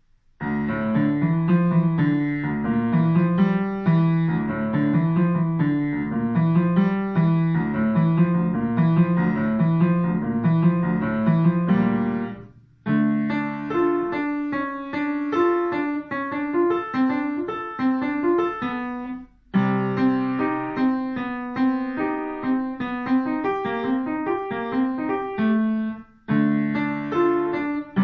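A child playing a piano solo: a melody over a repeating pattern of lower notes. The playing stops briefly three times, at the ends of phrases.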